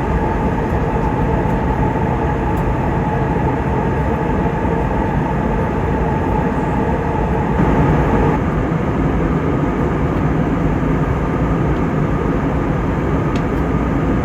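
Steady cabin noise of an Airbus A320neo in cruise: an even, loud rush of airflow and engine noise. A faint steady hum over it stops about eight seconds in.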